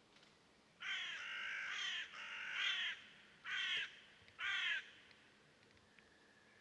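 A bird giving four harsh, cawing calls in quick succession, the first two longer than the last two.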